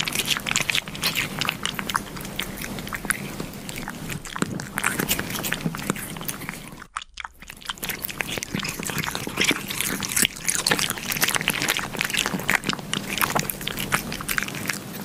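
Cats licking yogurt off a pane of glass: rapid wet lapping and smacking clicks of tongues, with a brief break about halfway through.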